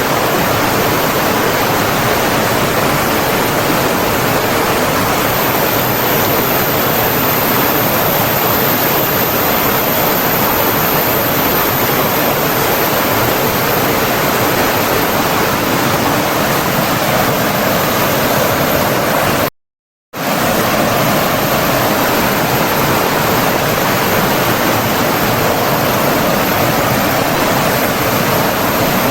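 Flowing water running steadily as an even, dense hiss. About two-thirds of the way through it cuts to silence for about half a second, then resumes.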